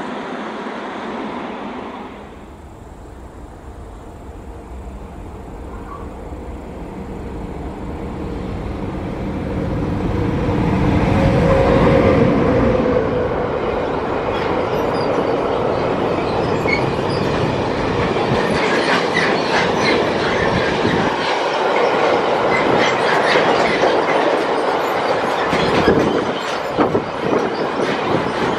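Electric freight train passing: the locomotive's sound grows louder as it approaches and peaks about twelve seconds in. A long string of car-carrier wagons follows, their wheels clattering over the rail joints.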